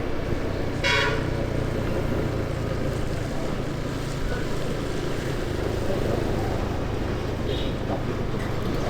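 Motorcycle engine running steadily with road and wind noise while riding, and a vehicle horn tooting briefly about a second in.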